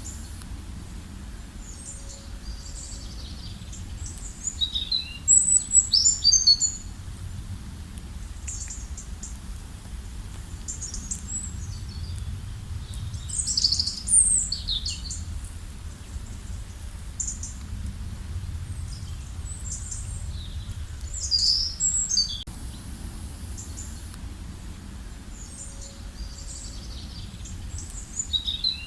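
Small birds chirping and singing in short, high-pitched phrases. The loudest bursts come about five, thirteen and twenty-one seconds in, over a steady low rumble.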